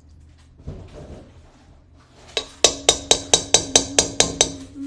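A quick, even run of about ten sharp clinks, roughly four to five a second, from a metal utensil striking a glass or ceramic kitchen bowl. A steady low tone sounds under the clinks, and the clinks stop near the end.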